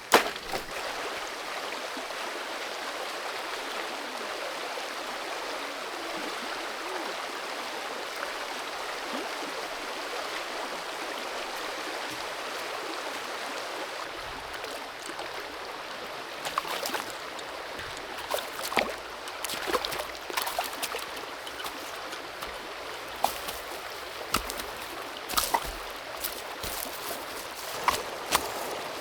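Shallow forest creek running, a steady rush of water. About halfway through, irregular sharp clicks and knocks begin over it.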